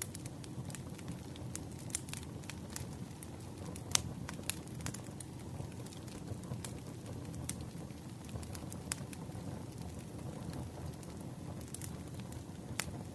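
Wood fire crackling: irregular sharp pops and snaps over a steady low rumble of burning, with one louder pop about four seconds in.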